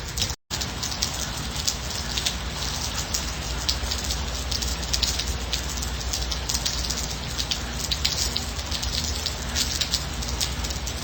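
Steady rain falling, a dense hiss with many separate drops pattering on a surface. The sound cuts out for an instant about half a second in, then carries on unchanged.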